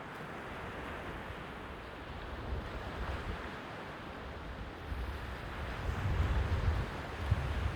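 Sea waves washing on the shore, with wind buffeting the microphone in gusts that grow stronger in the second half.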